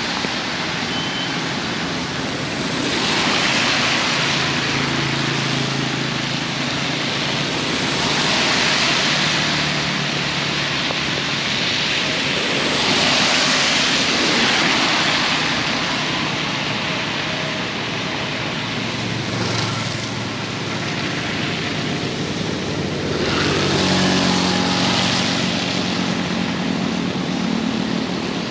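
Heavy rain pouring hard, swelling and easing in surges every few seconds. A low steady hum comes in near the end.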